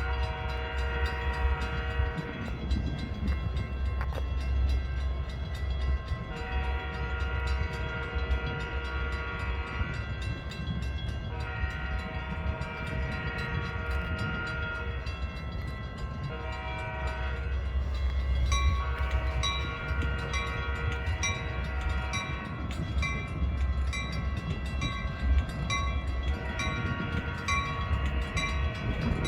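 Train passing with a steady low rumble while its multi-chime air horn sounds several long blasts and a short one, a crossing-warning pattern. In the second half a repeating higher-pitched tone rings at a steady pace over the train.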